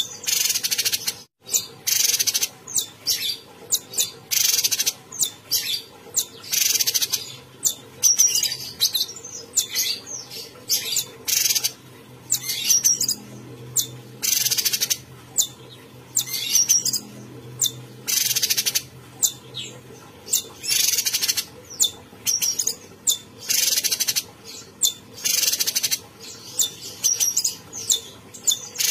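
A cucak cungkok, a caged bulbul-type songbird, singing continuously in a rapid string of short, high, chirpy notes broken by very brief pauses. The singing stops for a moment about a second in.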